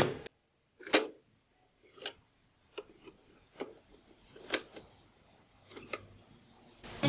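Six or seven sharp mechanical clicks, irregularly spaced, from the controls of a Sony CFS-W350S radio cassette recorder being operated during testing. The loudest come about a second in and midway through.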